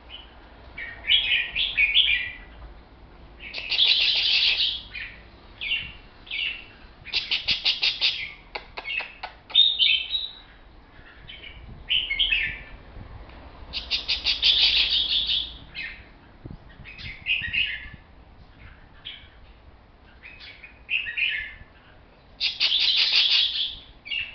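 A pet songbird singing a series of chirping song phrases, some long and full, one a fast rattling trill, with short gaps between them.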